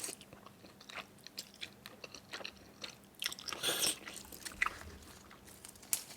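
Close-miked chewing and biting of food, with small crunches and wet mouth clicks, one louder bite a little past three and a half seconds in.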